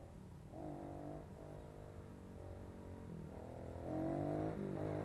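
Kawasaki KLX110 pit bike's small single-cylinder engine running, its pitch rising and falling with the throttle and getting louder about four seconds in. The sound is dull and muffled, as through a waterproof camera case.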